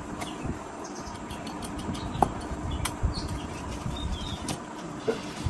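Scattered light clicks and knocks, with one short bird chirp about four seconds in.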